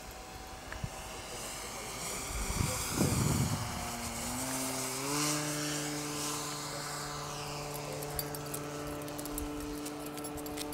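Electric motor and propeller of an RC Cessna 182 model plane running, its steady whine stepping up in pitch twice about four to five seconds in and then holding. There is a brief low rumble about three seconds in.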